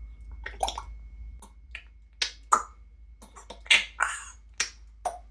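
African grey parrot making a quick, irregular series of sharp clicks and pops with its beak and mouth, about a dozen, loudest a little past the middle.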